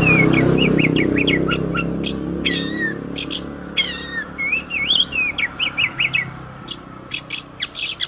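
Oriental magpie-robin (kacer) singing a varied song of quick whistled notes that slide up and down, mixed with short sharp high chirps. A low rumble underneath fades away over the first half.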